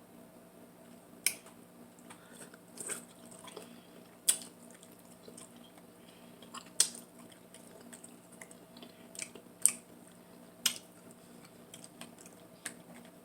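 Close-miked eating sounds: scattered sharp, wet smacks and clicks of a mouth chewing seafood, about seven over the stretch, over a faint steady hum.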